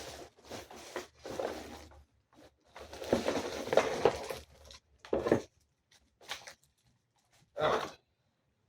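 Cardboard packaging being handled and pulled out of a box: irregular rustling and scraping, loudest about three to four seconds in, then a couple of short scuffs.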